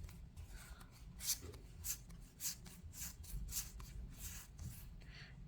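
Yu-Gi-Oh! trading cards being handled and sorted into piles: a string of faint, short flicks and slides of card stock against card stock.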